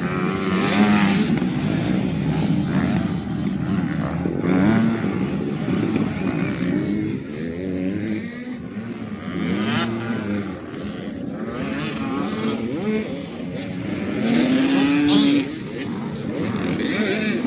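Several 85cc two-stroke motocross bikes racing, their engines revving up and down through the gears as they pass. One rev rises strongly and then cuts off sharply near the end.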